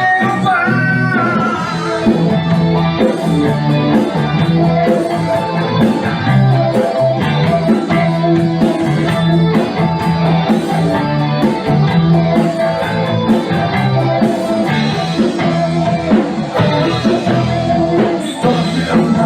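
Rock band playing an instrumental passage of a song, with electric guitars over a pulsing bass line and drums.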